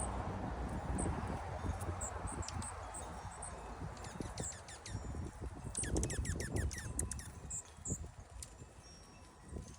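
Small wild birds chirping: scattered short, high chirps, with a quick run of falling notes about six seconds in. A low rumble underneath fades away over the first half.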